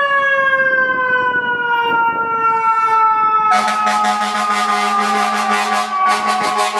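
Fire engine siren wailing, its pitch slowly falling, with a long buzzing horn blast over it from about three and a half seconds in until shortly before the end.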